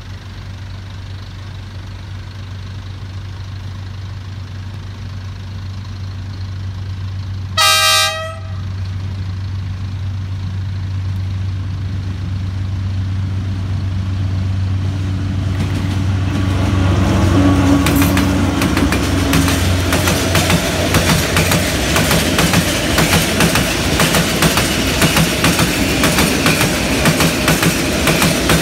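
A D19E diesel-electric locomotive approaching with a low engine hum that grows steadily louder, sounding its horn once in a short blast about eight seconds in. From about sixteen seconds the locomotive and its long freight train pass close by, and the wagon wheels clatter over the rail joints in a rapid, loud clickety-clack.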